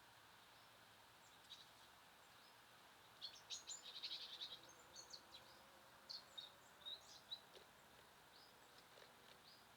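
Small songbirds chirping faintly over a steady background hiss: a quick run of short, high calls about three seconds in, then scattered single chirps.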